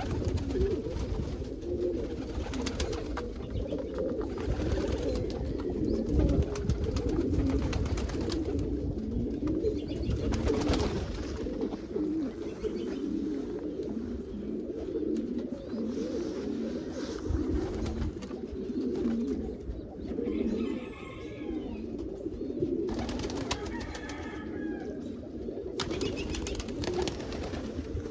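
A flock of pigeons cooing continuously in their loft, many birds overlapping in a steady low warble.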